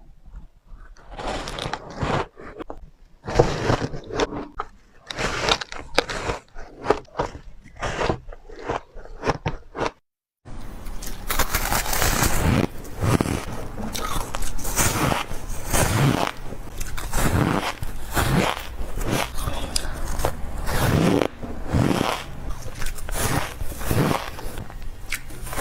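Close-up biting and chewing of refrozen powdery ice: soft, crunchy bites. After a short gap about ten seconds in, the crunching comes thicker and louder.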